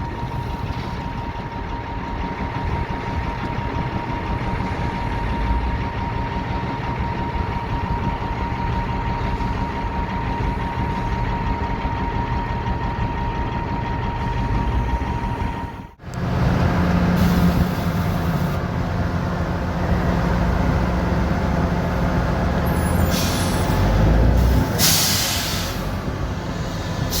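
Dump truck's Caterpillar 3406 diesel engine running, with a steady high whine over the first half. After a sudden break about halfway, the engine note changes, and near the end come short bursts of air hissing.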